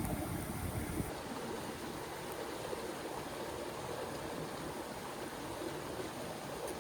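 Steady rushing of a river flowing over rocks. A heavier low rumble in the first second cuts off abruptly about a second in, leaving the even sound of the water.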